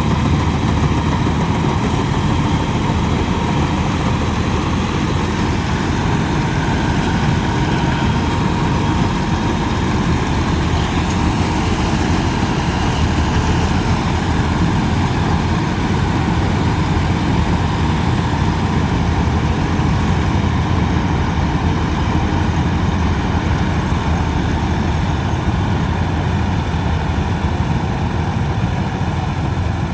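Wheeled paddy combine harvester's engine and machinery running steadily at a constant pace, a deep, even drone with a faint steady whine above it.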